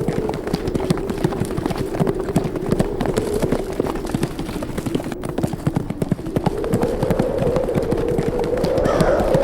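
Many horses' hooves drumming in a fast, irregular clatter as a herd runs, over a steady wind with a moaning pitch that sinks and rises again.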